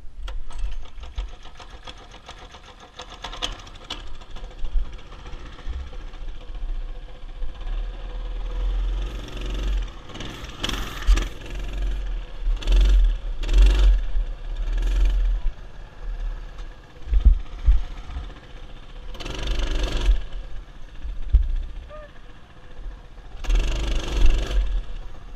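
Mini bike's small engine running as it is ridden, swelling louder several times, with wind rumbling on the microphone.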